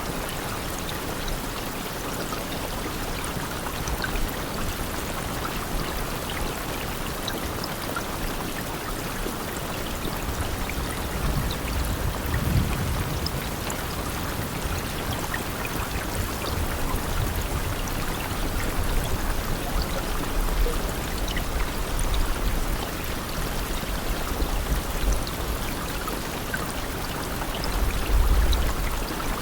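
Steady rain falling, a continuous hiss with scattered individual drops. A brief low rumble comes about twelve seconds in and again near the end.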